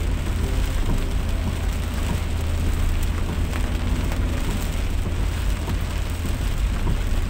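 Heavy rain falling steadily, over a constant low rumble of a vehicle travelling on a wet road.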